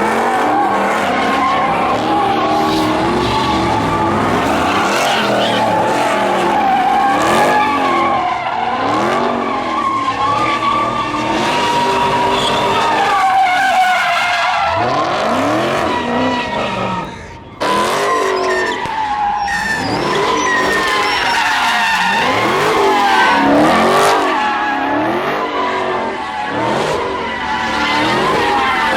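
Cars doing burnouts and donuts: tyres squealing continuously while engines rev up and down over and over. The sound drops out briefly about seventeen seconds in, then the squealing and revving resume.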